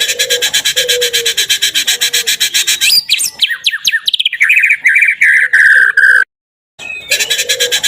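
White-rumped shama (murai batu) song played as a lure: a fast buzzing trill of about ten pulses a second, then a run of louder whistled notes sliding downward. It cuts off suddenly about six seconds in, and after a short gap the same trill starts again, as in a looped recording.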